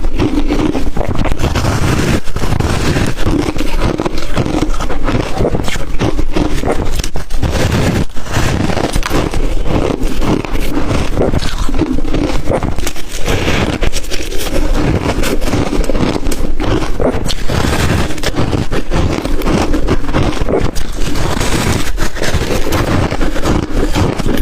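Ice coated in matcha and milk powder being bitten and crunched, a dense run of crackling crunches, with swallowing between bites.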